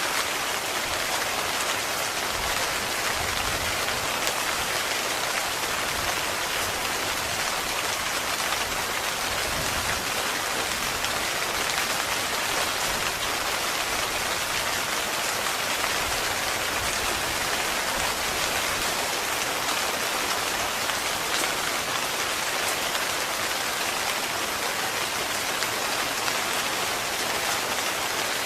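Heavy rain falling steadily on a tent, a dense, even patter with no pauses.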